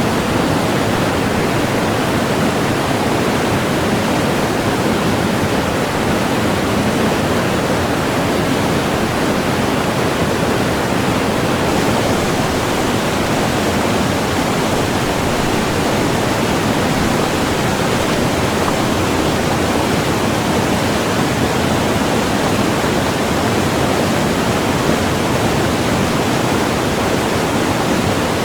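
Rushing white water of the Kolvitsa river, a fast, rapid-strewn northern river, as a loud, steady, full rush with a little more hiss from about twelve seconds in.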